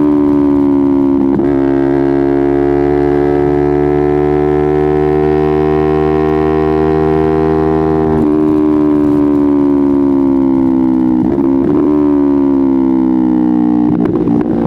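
Kawasaki Ninja 250R's parallel-twin engine running under load while riding, a loud steady tone that rises slowly in pitch and then falls near the end. It is broken by brief disturbances a few times.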